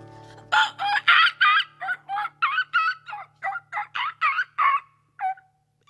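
A man's voice making a rapid string of about fifteen short, high, yelping hoots, a vocal imitation of monkey chatter, while a strummed acoustic guitar chord dies away under the first couple of seconds.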